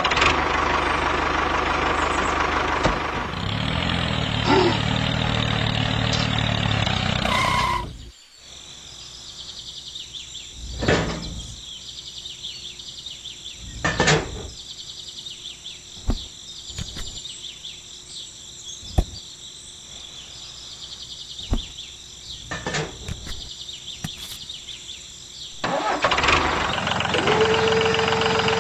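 A tractor engine starting and running for about eight seconds, then cutting off suddenly. Scattered clicks and knocks follow as the plastic plough attachment is fitted by hand. Near the end comes a steady whine as the toy tractor's lift raises the plough.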